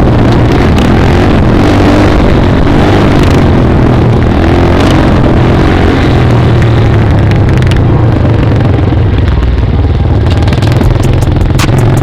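Small single-cylinder dirt bike engine running steadily under way, loud and close, with wind noise over it. A few sharp clicks come near the end.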